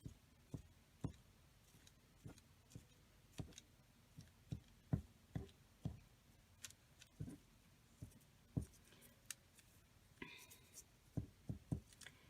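Faint, irregular light taps and clicks, about one or two a second, of paper and craft materials being handled and set down on a work table.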